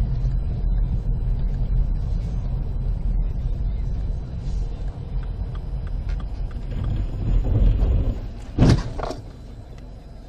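Steady low road and engine rumble of a car as heard by a dashcam, then two loud knocks about half a second apart near the end.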